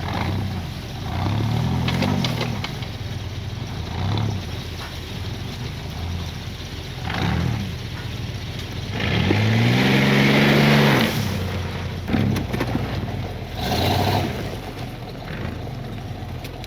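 Mud truck's engine revving in repeated bursts, the pitch climbing and falling each time, with the longest and loudest rev about nine to eleven seconds in.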